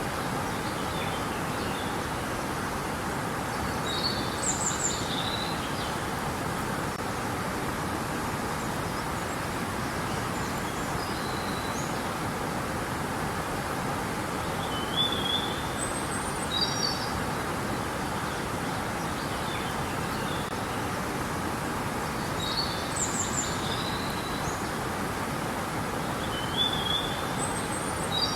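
Steady rushing of flowing river water, with small birds chirping in short, high phrases every few seconds, loudest around four, fifteen to sixteen, and twenty-three seconds in.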